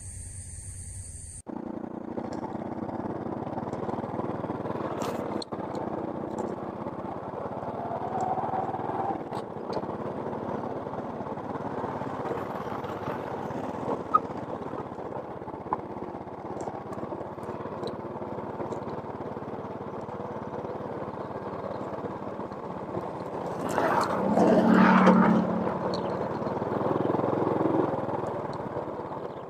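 Steady outdoor background noise, with a motor vehicle passing close by about 24 seconds in, its engine note briefly the loudest thing.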